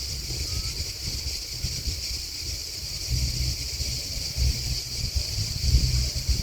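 A steady chorus of chirping insects, grasshoppers or crickets, heard as a continuous high-pitched buzz. Underneath it, a gusty low rumble of wind on the microphone.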